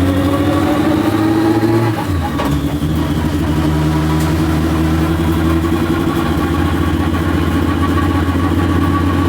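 A roughly 1000-horsepower drag car engine running. Its revs creep up slightly, drop back about two seconds in, and then settle into a steady, choppy idle.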